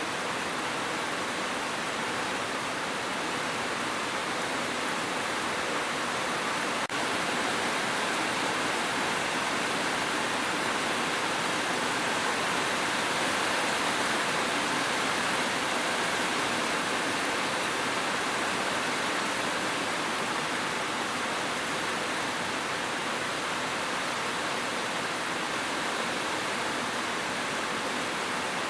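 Heavy rain falling as a steady, even hiss with no separate drops heard, with a tiny click and slight step up in level about seven seconds in.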